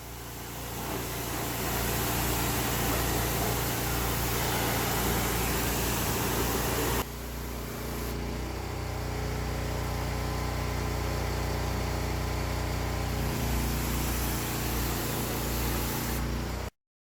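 Diesel-driven water blaster running steadily, an engine hum under a strong hiss. The sound changes abruptly about seven seconds in and cuts off suddenly near the end.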